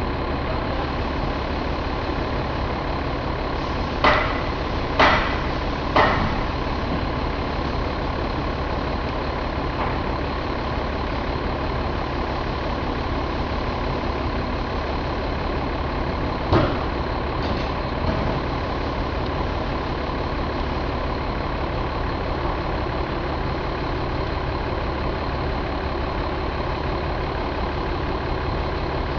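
Mercedes MBE926 inline-six diesel engine idling steadily. A few short sharp clicks come through about four, five and six seconds in, and once more about halfway through.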